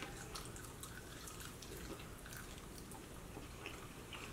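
Faint chewing of chicken wings close to the microphone: soft, wet mouth clicks and smacks scattered throughout.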